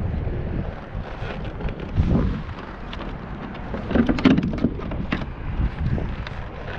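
Wind buffeting the microphone in a steady low rumble, with two louder bursts of noise about two seconds in and again around four seconds in.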